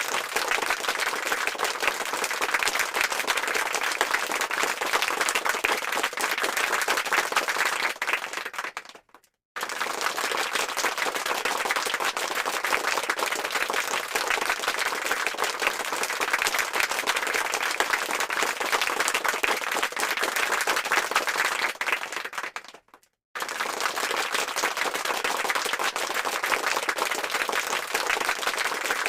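Applause sound effect: many hands clapping in a dense, even crackle. It fades and drops out for about half a second twice, about nine and twenty-three seconds in, each time starting again at full level as the clip loops.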